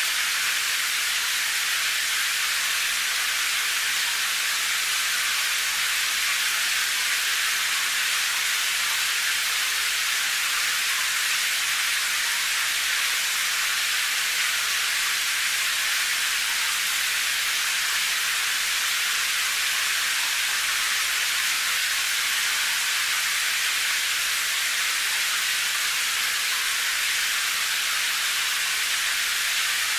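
Steady rain, heard as an even high hiss with no separate drops or thunder standing out.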